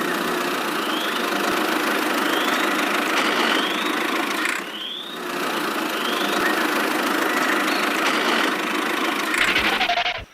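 A small motor-driven machine running steadily, with a short rising squeak repeating about once a second and a brief dip about halfway through.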